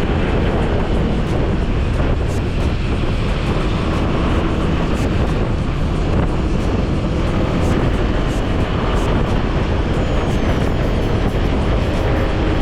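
Steady wind rumble on a GoPro's built-in microphone while riding a motorcycle, with the bike's engine and road noise underneath.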